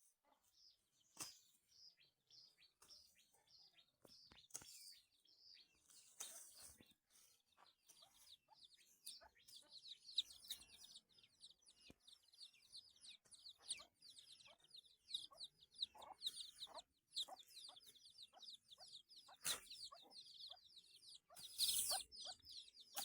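Faint, rapid high-pitched chirping from birds: many short calls in quick runs, growing busier partway through, with a few scattered soft knocks.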